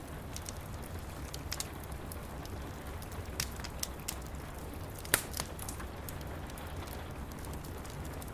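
Wood fire crackling in a fireplace, with scattered sharp pops; the loudest comes about five seconds in. Under it runs a steady hiss of rain and a low steady rumble.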